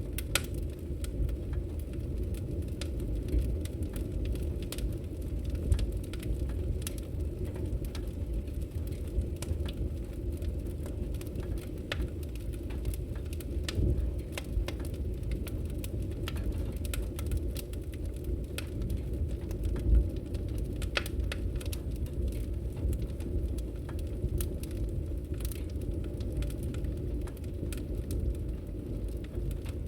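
Wood fire burning in a fireplace: a steady low rumble of flames with frequent irregular crackles and pops, a louder pop about 20 seconds in.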